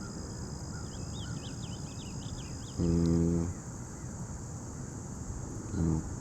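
Crickets chirring steadily, with a bird twittering in quick chirps during the first half. A short, low, steady-pitched sound is heard about three seconds in and again briefly near the end; these are the loudest sounds.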